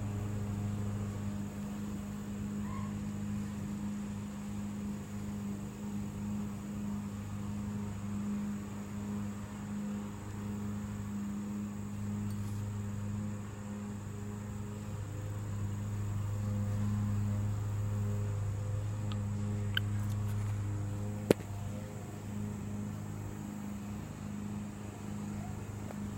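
Steady low mechanical hum, with one sharp click about three quarters of the way through.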